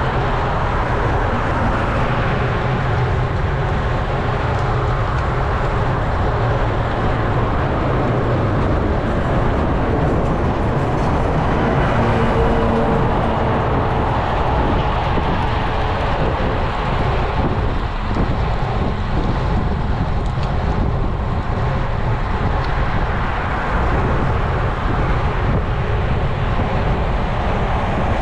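Steady wind rush and road noise on an action camera's microphone while a road bike is ridden along, strongest at the low end.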